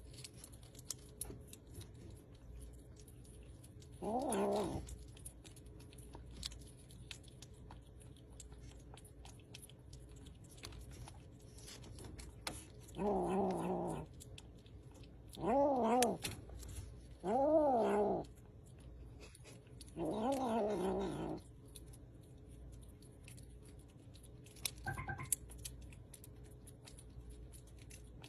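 A cat giving a series of long, drawn-out meows, each rising and then falling in pitch, about five of them with long pauses between and a faint short one near the end.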